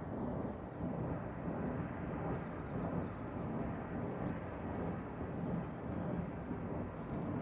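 A steady low rumble with no clear pitch, unchanging in level, with a few faint ticks above it: the strange noise being recorded, its source unidentified.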